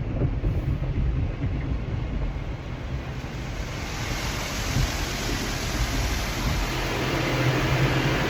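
High-pressure car-wash spray, its hiss coming on about three and a half seconds in, over a steady low rumble.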